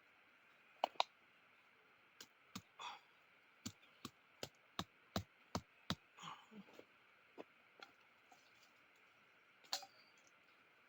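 Irregular sharp wooden clicks and knocks, likely sticks being handled and set in place on a stick-and-cord bird trap: two loud ones about a second in, a quick run of about one every half second in the middle, and a last one near the end, over a faint steady hiss.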